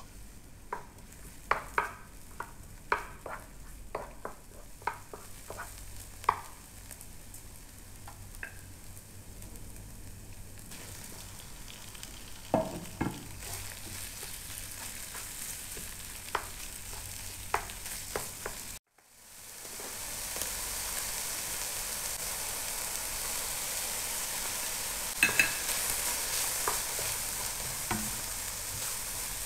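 Onion, garlic and chicken frying in oil in a dark non-stick pan and stirred with a wooden spoon: a steady sizzle broken by sharp clicks, many of them in the first several seconds. The sound cuts out for a moment about two-thirds of the way through, and the sizzle is louder after it.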